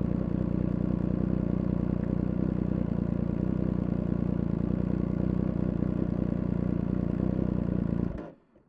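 Triumph Speed Triple 1200 RR's three-cylinder engine running steadily at an unchanging pitch, then cutting off abruptly near the end.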